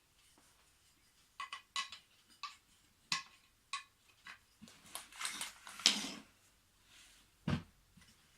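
Wooden toy train track pieces clacking against each other as they are picked up and fitted together: a run of irregular knocks and clicks, the loudest just before the end of it, then one more knock near the end.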